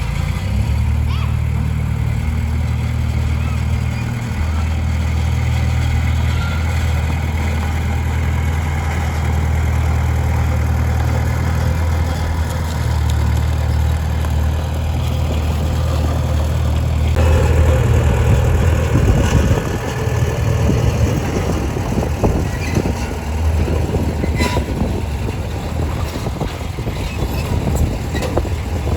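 Komatsu D20P bulldozer's diesel engine running under steady load with a low drone. About halfway through the sound turns rougher and noisier, with many short knocks and rattles.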